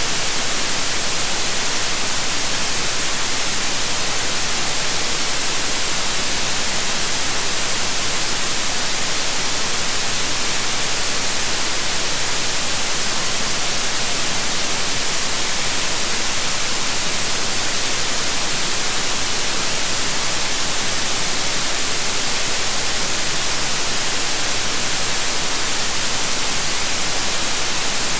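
Steady, unchanging white noise: an even hiss weighted toward the high end.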